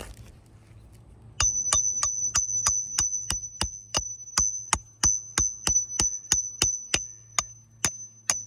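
Hammer tapping a steel roofing snake in an even rhythm, about three strikes a second, starting about a second and a half in. A high ringing note from the struck metal carries on between the strikes. The snake is being driven under the shingles to break their seal.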